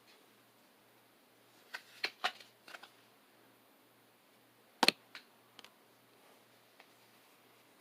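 Pokémon trading cards and their foil pack being handled: scattered soft clicks and taps, with one sharp snap about five seconds in.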